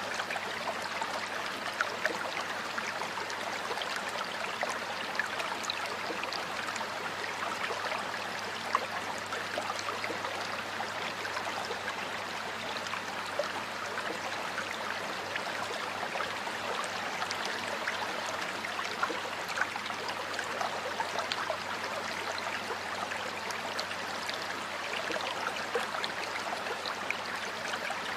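Stream water flowing and splashing steadily, with many small sharp splashes and gurgles.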